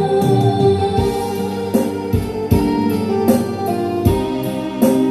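Instrumental interlude of a pop song's backing music, with keyboard and guitar over a bass line and a steady drum beat, and no voice.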